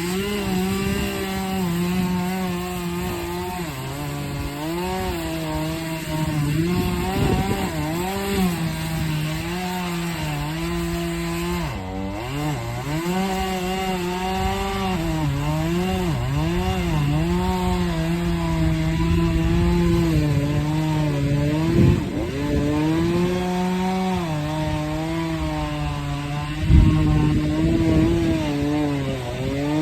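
Chainsaw running and cutting wood. Its engine pitch repeatedly dips as the chain bogs in the cut and climbs back as it frees up. A sudden loud thump comes near the end.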